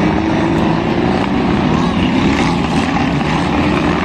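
Race car engines running at high revs, a steady drone over a low rumble.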